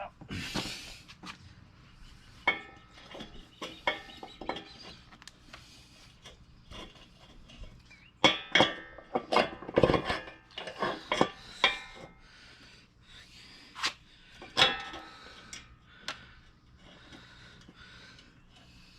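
Scattered metal clinks and clanks of the axle bolt, washers and wheel hardware being handled and fitted to a mini bike's front fork, with the loudest run of clanks in the middle and another sharp one a few seconds later.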